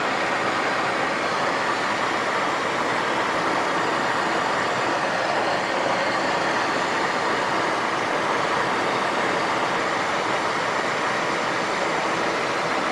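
Steady cockpit noise of a Cessna Citation XLS on final approach with flaps set for landing: airflow and twin turbofan engine noise, even and unchanging throughout.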